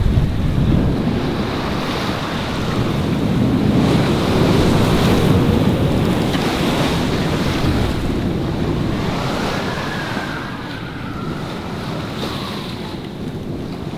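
Wind buffeting the microphone over the rush of sea waves around a sailing yacht under sail, easing a little in the second half.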